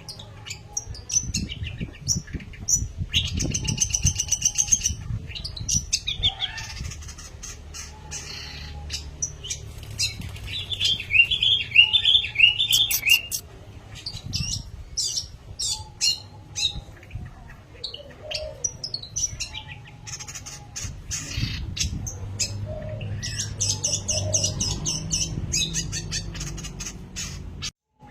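Long-tailed shrike singing in repeated bursts of rapid high chirps and trills, with a steady low rumble underneath.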